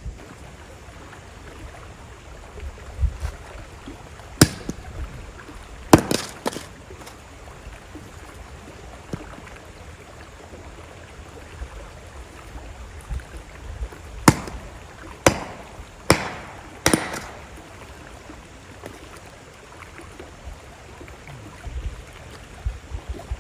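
Campfire crackling, with a handful of sharp pops in two clusters, over the steady wash of a slow-moving river.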